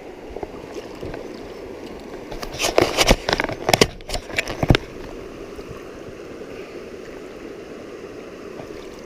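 Stream water running steadily, with a short burst of splashing and knocks near the middle, in the water where a small brown trout is being let go.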